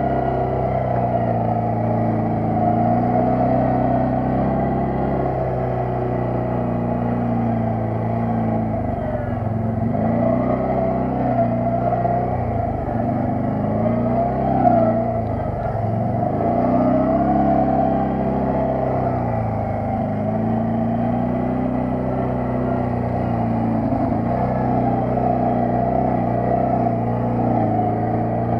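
Quad bike (ATV) engine running under way, its pitch rising and falling as the throttle opens and closes.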